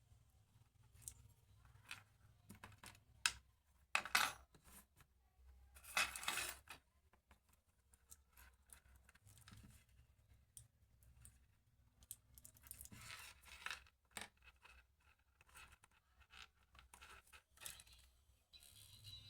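Scattered small clicks, scratches and scrapes of hands and a tool working a wire out of a Bluetooth neckband's plastic housing, with louder scraping about four and six seconds in.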